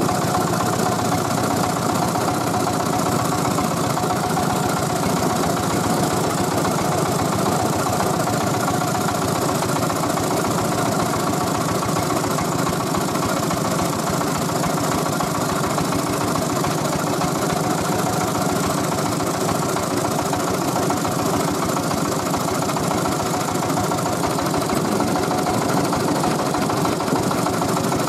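The 24 PK Tiger diesel engine of a mobile rice milling machine running steadily at an even speed.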